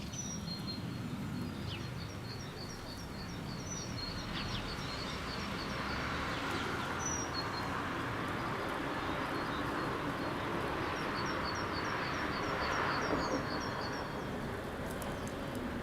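A small songbird singing runs of quick, high, repeated chirps, twice, over a steady outdoor rushing background that grows louder in the middle.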